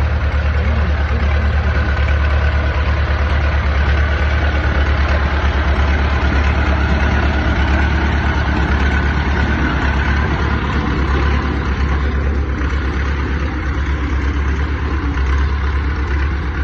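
Old tractor engine running steadily at a loud idle, with a deep, evenly pulsing hum.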